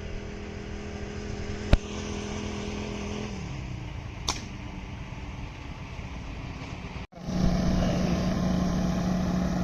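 Motor vehicle engine running steadily, its pitch dropping a little about three seconds in. A single sharp crack sounds just under two seconds in, and a fainter click comes a couple of seconds later. Near the end the engine hum is louder and steady.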